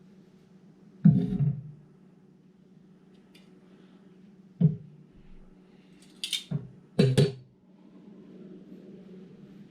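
Kitchen utensils and dishes knocking and clattering in several separate knocks, the loudest about a second in and a quick pair around seven seconds, over a steady low hum.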